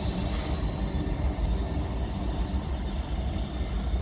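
Train running along the tracks close by, a steady low rumble. A high wheel squeal dies away just at the start.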